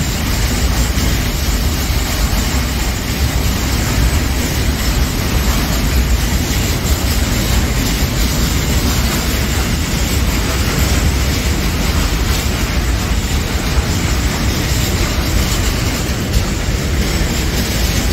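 Container freight train of flat wagons rolling past close by on the track beside the platform: a steady, loud rumble and rush of steel wheels on rail.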